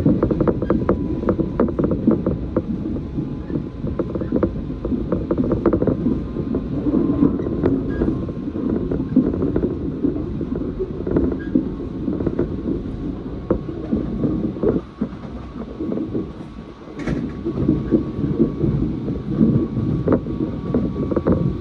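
Moving passenger train heard from inside the carriage: a steady running rumble with wheels clicking and knocking over the track. The rumble eases briefly about two-thirds of the way through, and there is a short high ping.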